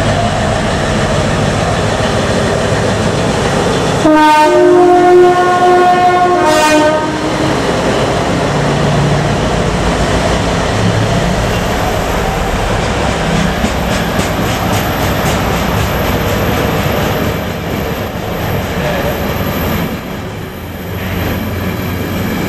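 A locomotive hauling a train of yellow track maintenance machines passes close by, sounding its two-note horn loudly for about three seconds, about four seconds in. After the horn comes the steady rumble of the passing train, with a run of rhythmic clickety-clack from the wheels over rail joints near the middle.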